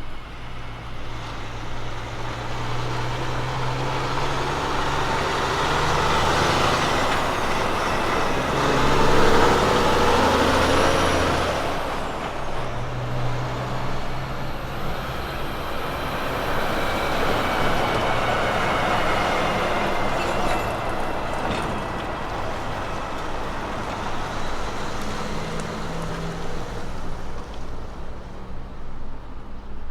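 Heavy diesel truck engine running as the truck drives by, its sound swelling to the loudest point about nine to eleven seconds in, then easing to a steady engine and road drone.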